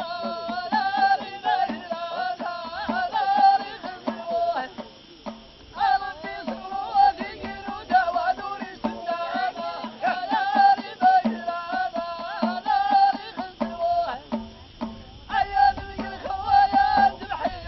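Ahidous troupe singing in unison in repeated phrases over a steady beat of bendir frame drums. The singing stops briefly twice while the drums keep beating.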